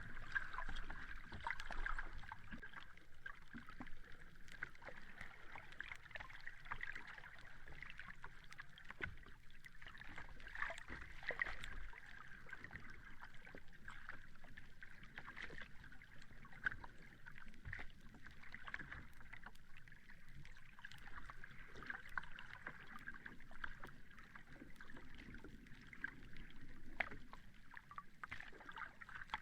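Sea water lapping gently at the shore: a steady wash with many small splashes and crackles throughout.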